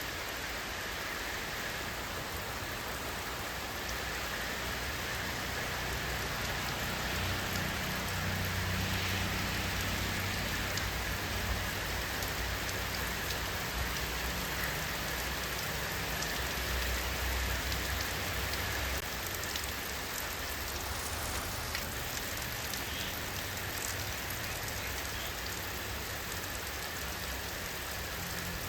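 Steady rainfall, an even hiss of drops on surfaces, with a low rumble that swells about a fifth of the way in and eases off past the middle.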